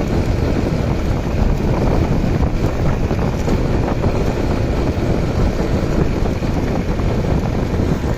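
Motorcycle engine running steadily during a ride, mixed with heavy wind noise buffeting the microphone.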